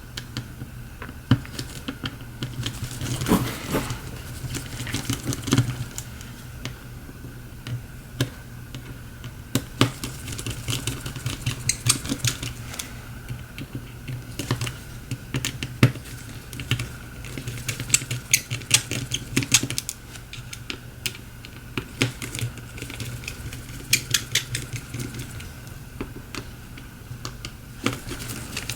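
Small irregular clicks and taps of a precision screwdriver and tiny screws as the screws are taken out of a smartphone's frame, over a steady low hum.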